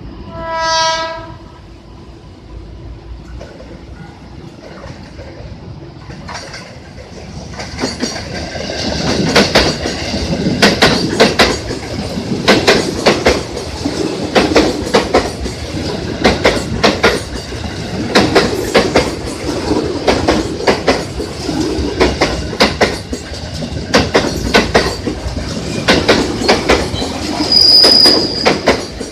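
A train horn sounds once briefly, then a train approaches and runs past close by, its wheels clacking rhythmically over the rail joints. Near the end there is a short high squeal from the wheels on the curve.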